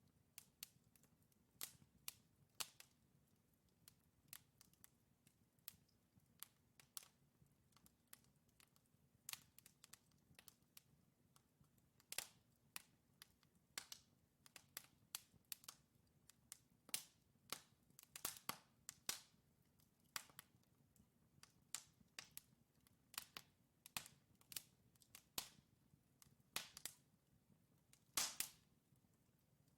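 Logs burning in a wood fireplace, crackling with irregular sharp pops and snaps, sometimes several in quick succession, the loudest near the end. A faint low steady hum lies underneath.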